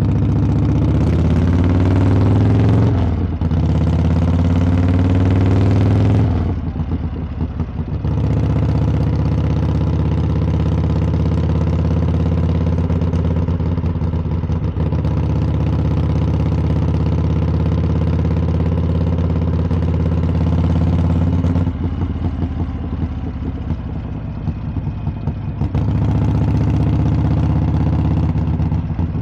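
Harley-Davidson V-twin motorcycle exhaust while riding. It rises in pitch under throttle through the first few seconds, with a brief dip about three seconds in. It eases off around six seconds, holds a steady cruise, drops back around 22 seconds, and pulls harder again near the end.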